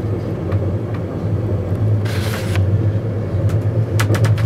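Steady low rumble of a passenger train running, heard inside a compartment of a second-class Intercity coach. A brief hiss comes about two seconds in, and a few sharp clicks come near the end.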